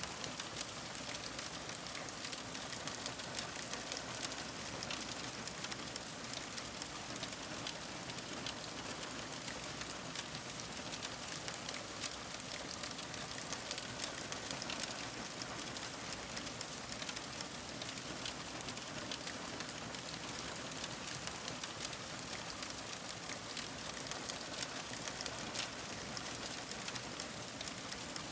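Fire crackling steadily: many small pops and snaps over a soft, even hiss.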